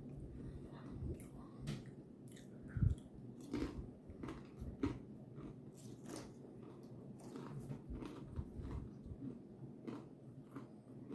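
Close-up crunching and chewing of a crispy Cheez-It Grooves cracker, a run of irregular crackling crunches.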